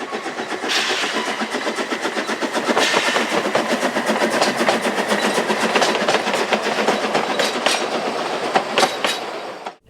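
Narrow-gauge steam locomotive under way, heard from close up on the engine: a dense, rapidly pulsing clatter of running gear and wheels on rail. A few sharper knocks come near the end, just before the sound cuts off abruptly.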